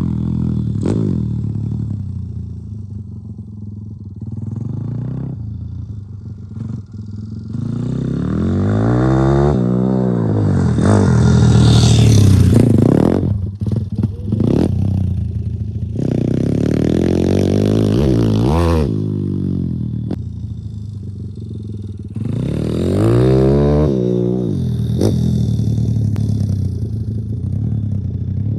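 2021 YCF 150 Supermoto pit bike's single-cylinder four-stroke engine being ridden hard on dirt, its revs climbing and falling back several times as the throttle is opened and shut, with a brief cut about fourteen seconds in.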